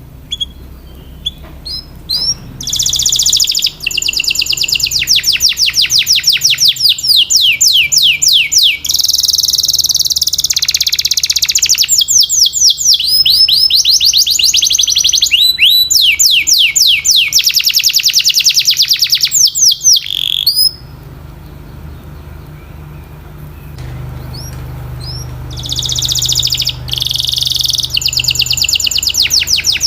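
Domestic canary singing: long, fast trills of high, rapidly repeated down-sweeping notes, changing from one tour of notes to the next. The song breaks off for a few seconds about two-thirds of the way through, then starts again with another rapid trill.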